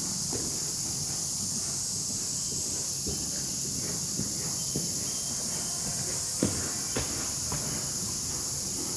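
Steady high insect drone, with scattered dull thuds of a horse's hooves on the arena footing as it works on the lunge line; the sharpest thud comes about six and a half seconds in.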